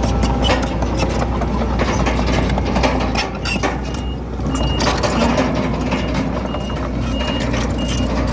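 Komatsu D31PX crawler bulldozer's diesel engine running under load, with scattered clanks and knocks of tracks and rock. A reversing alarm beeps in short, even pips, more often in the second half.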